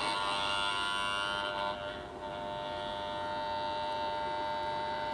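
Growler (armature tester) buzzing steadily on a generator rotor, energised so that it induces a test voltage in the rotor's field coils.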